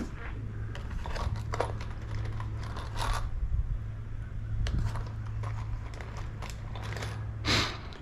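Scattered light clicks and clinks of small metal items being handled at a workbench, with one louder scrape-like clatter near the end, over a steady low hum.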